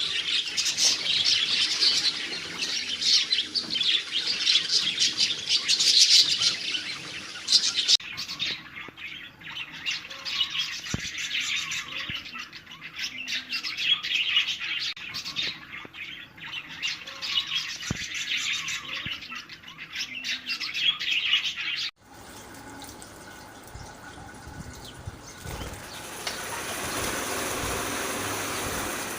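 Budgerigars chattering and warbling in a dense run of quick chirps. About two-thirds of the way through it cuts off abruptly, and a quieter, even rushing noise follows that grows louder near the end.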